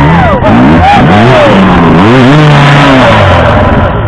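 Sherco motocross bike's engine revving up and down repeatedly as the throttle is worked, very loud.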